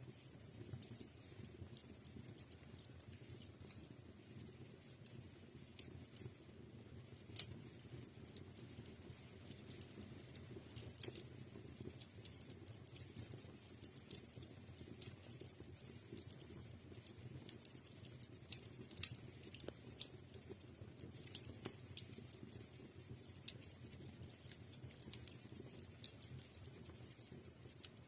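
Fire in a fireplace crackling, with irregular sharp pops and clicks over a low, steady rush of flame.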